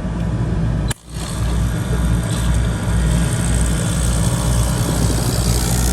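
DeLonghi coffee machine's vibratory water pump running with a steady buzzing hum, with a click and a brief dropout about a second in. The pump is drawing water again after trapped air, which the repairer takes to be the cause, was cleared from it.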